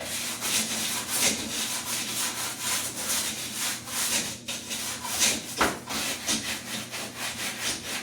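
A brush scrubbing a dirty engine-bay part with soap and water, in quick back-and-forth strokes.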